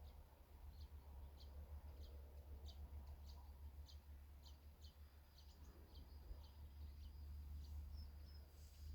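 Faint bird calls: a small bird repeating short high chirps about twice a second, over a low steady rumble.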